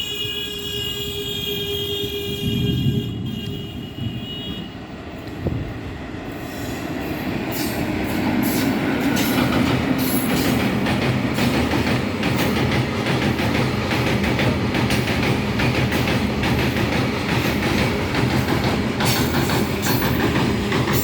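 Indian Railways train horn sounding at the start, holding one pitch for about four seconds. The rumble and rapid clatter of the train's wheels on the rails then builds up and runs on steadily and loudly.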